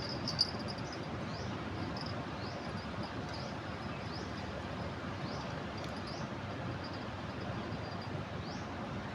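Steady rushing of a river in flood, with short rising chirps about once a second above it and a single click about half a second in.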